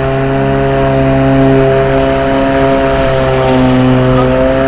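Kobalt electric lawn mower's motor running steadily at full speed with an even hum, just after spinning up.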